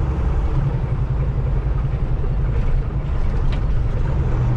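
Semi-truck's diesel engine running, heard from inside the Kenworth T680 cab as a steady low drone with road noise.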